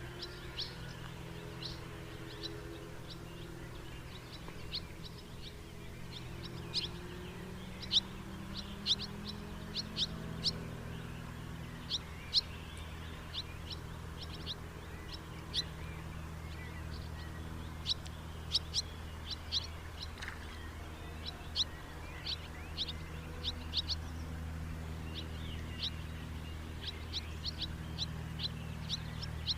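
House martins calling: many short, sharp chirps, scattered irregularly, over a low steady hum.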